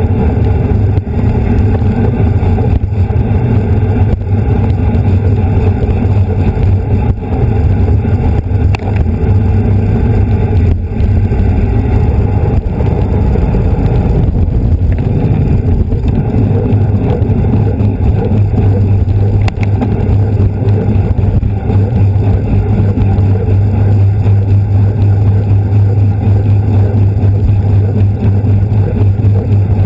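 Steady, loud wind rush and road rumble on the microphone of a camera riding along on a racing bicycle at speed.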